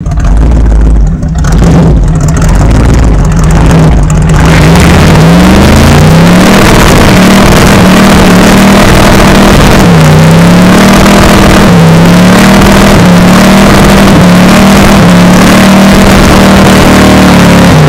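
Holden 308 V8 in a VR Commodore doing a burnout: the engine runs steadily at first, then revs climb about five seconds in and are held high, with two brief dips near the middle. The spinning rear tyre on concrete adds a loud hiss and squeal under the engine.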